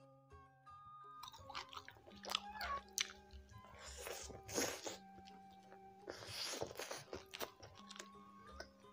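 Close-up mouth sounds of biting and chewing yellow-spiced tilapia picked off the fish's backbone, with several loud crunches, over soft background music.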